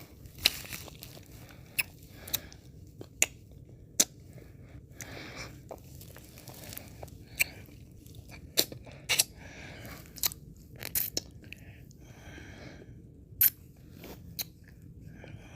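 Close-miked mouth sounds of eating and licking ice cream: sharp wet clicks and smacks at irregular intervals, with softer licking sounds between them.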